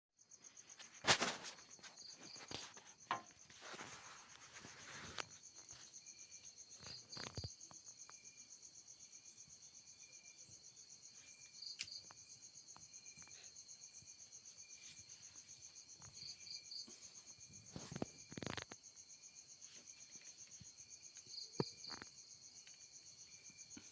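Crickets chirping steadily in a fast, even pulse. Scattered sharp knocks and a short rustle of handling break in, the loudest knock about a second in.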